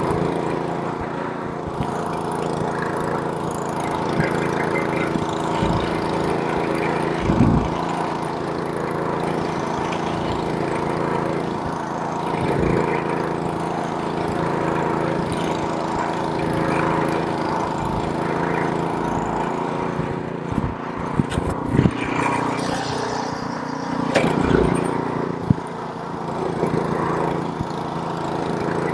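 Snowblower's small engine running steadily, with a few brief thumps and knocks now and then.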